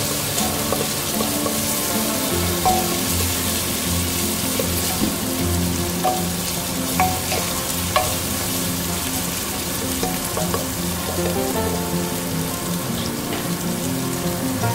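Sliced onions sizzling in hot oil in a pressure cooker as they brown, stirred with a wooden spatula that clicks against the pot now and then.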